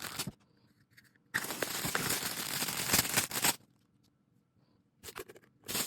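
Packaging being handled and opened during an unboxing: crinkling and tearing rustle. One long burst of about two seconds, starting about a second and a half in, then short bursts near the end.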